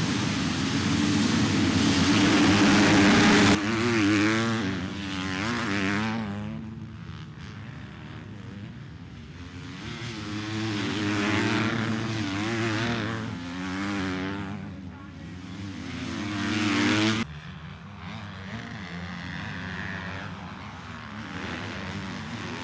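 Motocross bikes racing, their engines revving up and down through the gears. The audio cuts suddenly between clips about three and a half and seventeen seconds in, and is loudest at the start.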